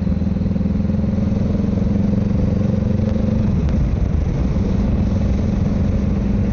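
Honda Rebel 500's parallel-twin engine running steadily while riding, with wind rush. About three and a half seconds in the engine note drops and wavers, then settles back to a steady note about a second later.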